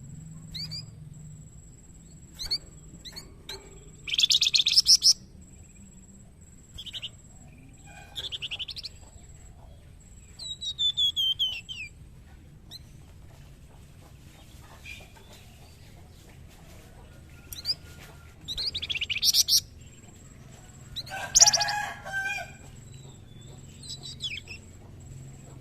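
Young flamboyan songbird singing in short, loud bursts of rapid chattering notes, about six phrases separated by pauses, one of them a run of falling whistled notes. Its vigorous 'gacor' song is the kind used as a tutor recording for other birds.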